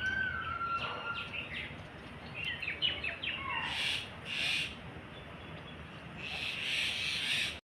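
Birds calling outdoors: a held whistle at the start, then a quick run of short chirps and a falling note around the middle, with a few short bursts of hiss later on.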